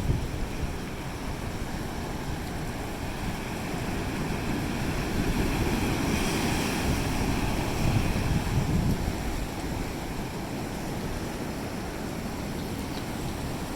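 Ocean surf washing onto a beach, with wind buffeting the microphone; a wave builds and breaks about six seconds in, then the wash settles back to a steady hiss.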